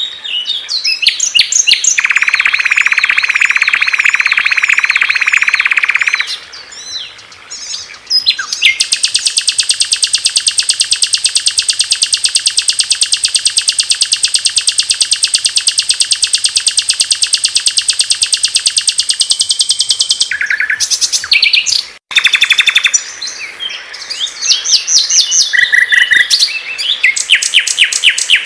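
Small songbirds singing loud, clear songs from several recordings spliced one after another, with sudden cuts between them. Varied chirps and whistled phrases are broken by a long, very rapid buzzing trill lasting from about nine seconds to about twenty.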